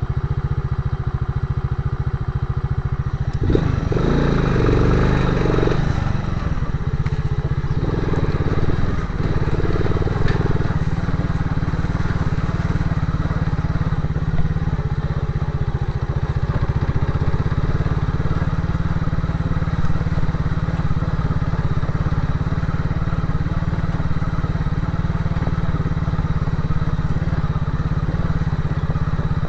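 Motorcycle engine running steadily, with a louder, busier stretch a few seconds in.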